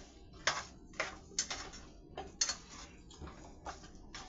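A spoon clicking and tapping against a frying pan, about eight light knocks at uneven intervals, as chicken nuggets are turned in melted butter.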